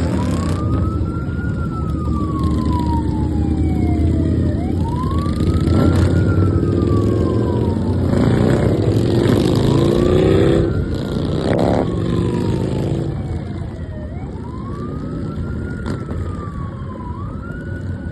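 A siren wailing in slow rises and falls, one cycle about every four and a half seconds, over the low rumble of a group of motorcycle engines; several engines rev up between about eight and eleven seconds in.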